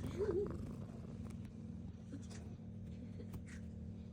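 Domestic cat purring steadily, a low continuous rumble, with a brief wavering vocal sound just after the start.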